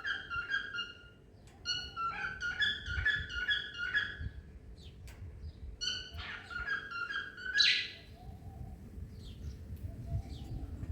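Cockatiel singing: three bursts of rapid, repeated warbling whistles, the third ending in a sharper, louder note, followed by fainter scattered chirps.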